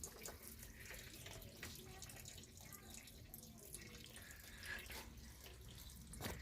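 Stale petrol dribbling faintly out of a Steyr Puch Haflinger's fuel tank through its disconnected hose, with a few small clicks.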